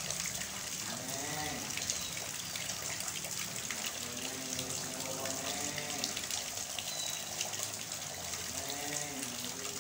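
Heavy rain pouring steadily onto a yard and puddles, with water running and splashing into a basin. A few drawn-out animal calls, each rising then falling in pitch, sound faintly under the rain: about a second in, again around four to five seconds, and near the end.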